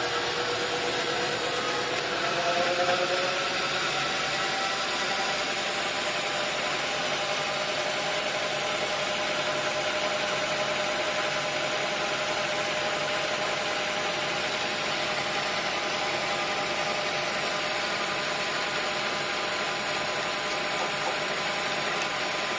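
Sawmill engine running steadily, its pitch rising about two seconds in and then holding even.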